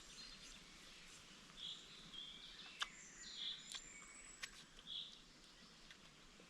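Faint forest ambience with birds calling in short notes, three of them spread over a few seconds, and a few sharp clicks in the middle.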